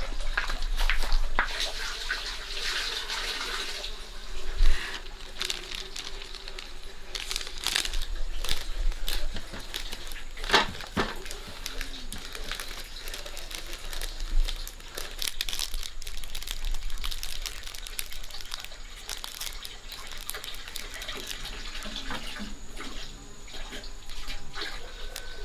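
Kitchen handling sounds: water running for a few seconds near the start, then scattered clicks and knocks of utensils and dishes.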